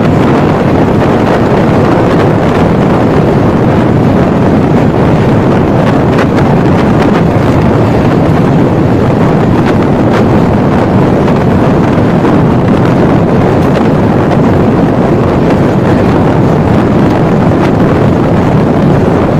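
Wind rushing over the microphone together with the rumble of a moving express passenger train, heard from its open coach doorway: a loud, steady rush that doesn't let up.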